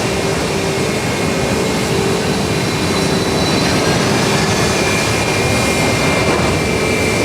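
Jet airliner engines running loud and steady, a rushing roar with a held high turbine whine over it and a faint whine rising partway through.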